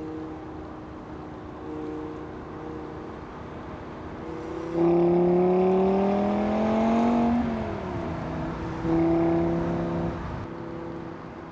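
Audi TT RS Roadster's turbocharged five-cylinder engine running under light throttle, then pulling hard about five seconds in with the pitch rising for two to three seconds before it drops sharply. A second burst of throttle comes near the end, held steady for about a second and a half, then eases back.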